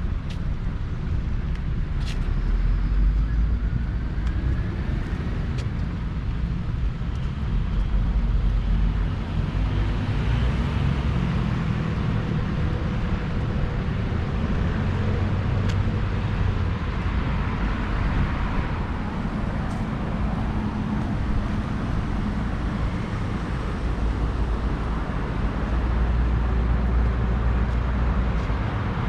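City road traffic running steadily, with louder swells as vehicles go by a few seconds in, around eight seconds in, and near the end.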